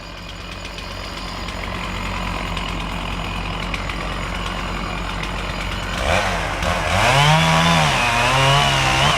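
Gas chainsaw running behind a steady engine hum. About six seconds in it gets louder and its pitch wavers up and down as it works, typical of a saw cutting under load.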